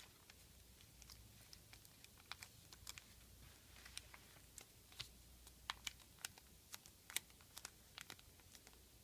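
Origami paper being folded and creased by hand: faint, irregular crisp clicks and taps of the paper, a couple to a few each second.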